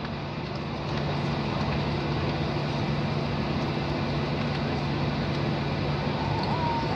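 Boeing 737-800's CFM56-7B turbofan engines running, heard inside the passenger cabin as a steady rushing noise with a constant low hum, which grows slightly louder about a second in.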